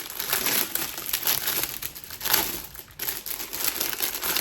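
Packaging being crinkled and rustled by hand as an item is unwrapped, in irregular bursts with a short pause about three seconds in.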